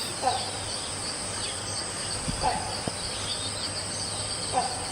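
Nature ambience: steady high insect trilling, with a short call repeating about every two seconds.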